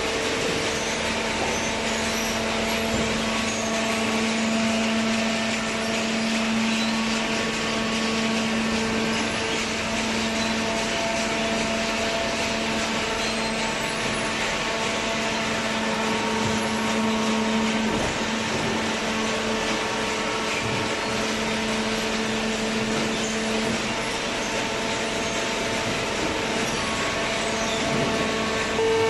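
Automatic horizontal hydraulic waste carton baler running, a steady machine hum and whine from its hydraulic power unit, with the lowest tone dropping away about four-fifths of the way through.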